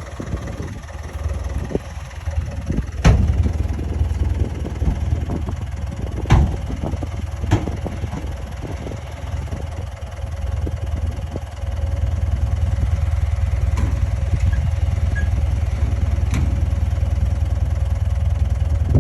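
Heavy diesel machinery engine running with a deep, continuous rumble that gets louder and steadier about halfway through. A few sharp metallic clanks come over it.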